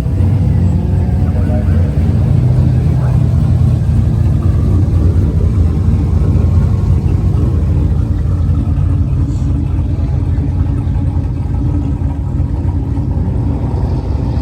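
Steady low engine rumble from vehicles, with indistinct voices underneath.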